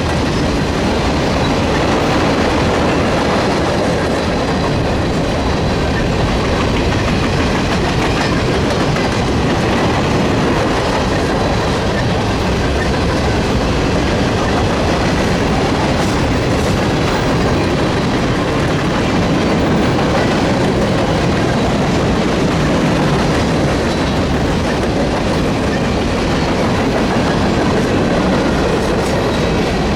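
Railroad cars of a train rolling steadily past, with a continuous loud rumble and rattle of steel wheels on the rails that does not let up.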